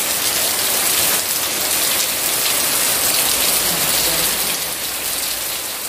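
Heavy rain pouring steadily onto a paved yard: a dense, even hiss of drops striking hard wet ground, easing slightly right at the end.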